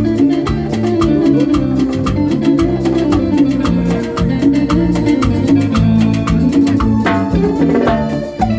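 Live band music with a steady, driving beat: a repeating bass line under sustained melody notes.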